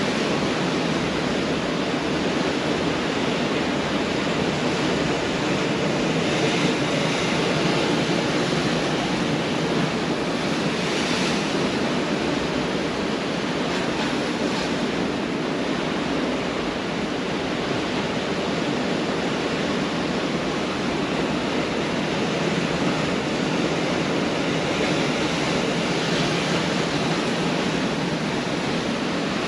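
Pacific Ocean surf washing steadily onto the beach, a constant rush of breaking waves with a few waves swelling slightly louder now and then.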